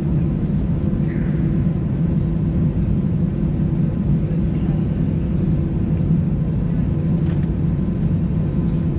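Steady drone of an Airbus A320's engines at idle, heard from inside the passenger cabin, with a constant low hum.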